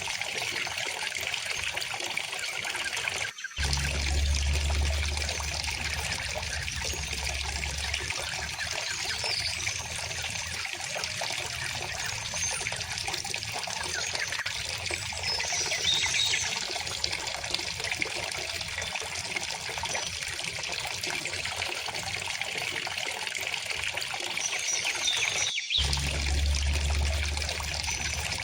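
River water flowing and trickling steadily, with birds chirping faintly now and then. The sound drops out for an instant twice, about three seconds in and near the end, and each time a low rumble follows for a few seconds.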